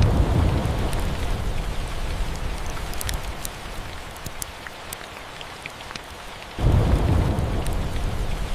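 Steady rain with two low thunder rumbles: one breaks at the start and fades slowly, and a second breaks near the end. Scattered sharp crackles run through it.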